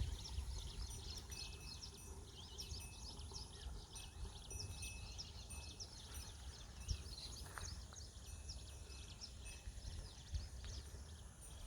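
Many small birds chirping busily in quick overlapping calls, over a faint low rumble.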